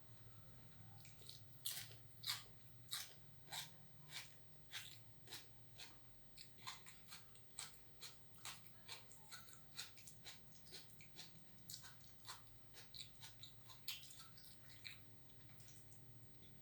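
A person chewing food close to the microphone, with wet mouth smacks and clicks about two a second.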